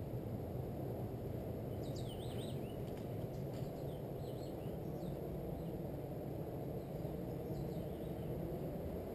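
Small birds chirping in short, quick curving notes, a run of them about two seconds in and a few more later, over a steady low rumble that is the loudest sound throughout.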